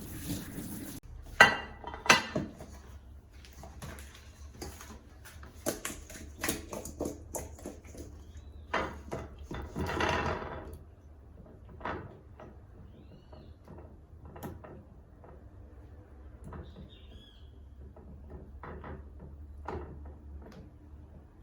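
Kitchenware clattering: dishes and utensils knocking and clinking as they are handled, with two sharp loud knocks early on and a brief rush of noise around the middle, then fewer, fainter clinks.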